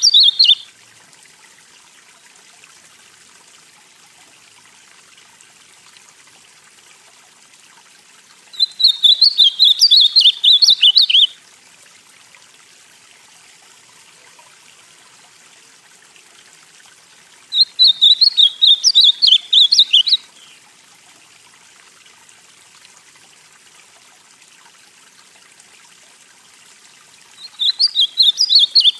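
Ultramarine grosbeak (azulão, Cyanocompsa brissonii) singing its northeastern-style song: a short warbled phrase of quick notes, repeated about every nine seconds. There are three full phrases of about two and a half seconds each, with a faint steady hiss between them.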